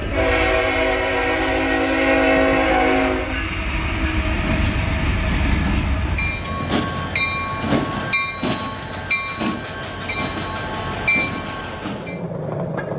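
Diesel freight locomotive air horn sounding one long chord for about three seconds, then the train running past with a rumble, wheel clacks and a bell ringing about twice a second.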